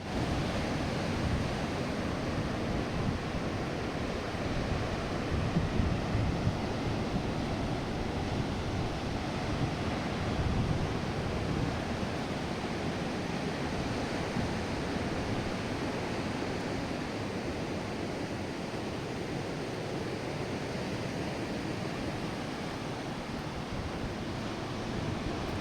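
Strong wind buffeting the microphone in gusts, over a steady wash of surf on the beach.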